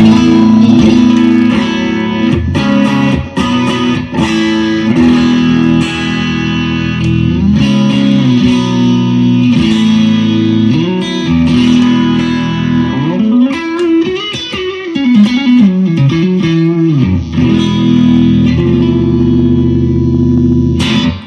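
Clean electric guitar played through a Universal Audio Ruby amp pedal with a little Strymon BigSky spring reverb and no delay, heard through monitor speakers: sustained ringing chords and single notes, with bent notes in the middle.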